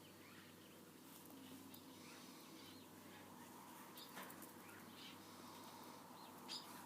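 Birds chirping faintly: short, scattered chirps, several close together about four seconds in and one sharper chirp near the end.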